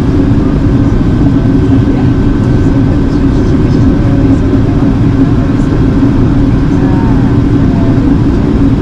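Steady cabin drone of an Airbus A380 in flight: engine and airflow noise with a constant low hum.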